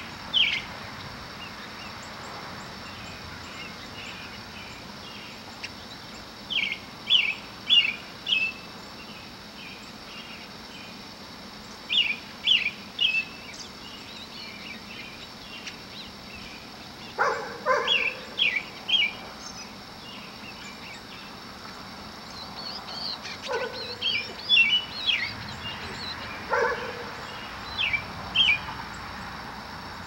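Small birds chirping in short clusters of two to four quick high notes every few seconds, with a few lower calls in the second half. A steady hiss of road traffic underneath.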